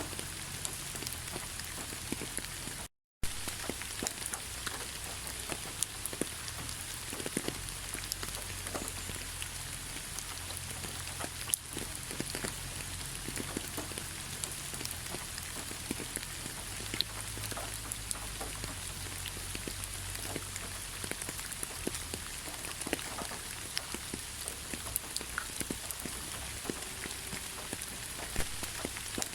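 Heavy rain falling: a steady hiss with many individual drops ticking on a surface. The sound cuts out for a split second about three seconds in.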